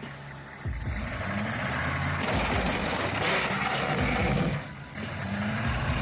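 A motor vehicle's engine running loudly, coming in a little under a second in, with a short drop in level near five seconds.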